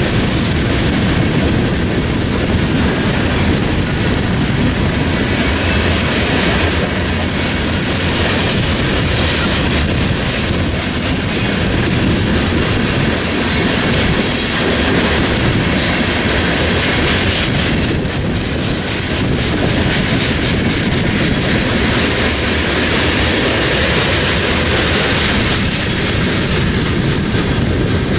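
Freight train cars rolling past, steel wheels clattering over the rail joints in a steady, loud rumble.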